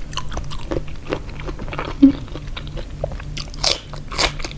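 Close-up crunchy chewing and biting of a spicy pickled seafood salad, irregular crunches with a few louder ones in the second half.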